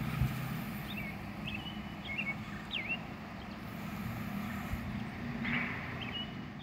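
A small bird chirping short whistled notes, a run of them in the first three seconds and a few more near the end, over a steady low rumble.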